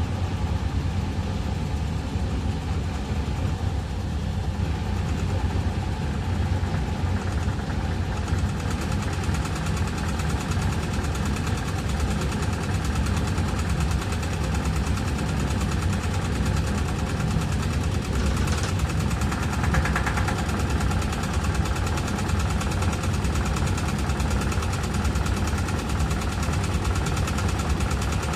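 Eudora 38 Super washing machine spinning at its 550 rpm spin speed: a steady, constant low hum from the motor and drum.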